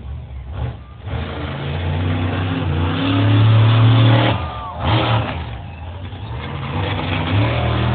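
Monster truck engine revving: it builds to a loud peak, drops off sharply, gives a short loud burst, then idles lower before revving up again near the end.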